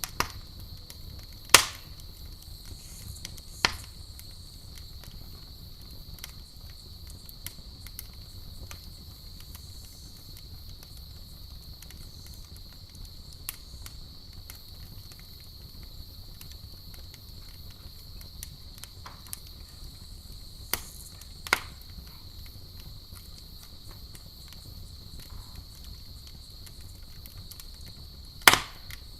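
Campfire crackling: a handful of sharp wood pops, the loudest about a second and a half in and near the end, over a steady low rumble and a steady high-pitched drone.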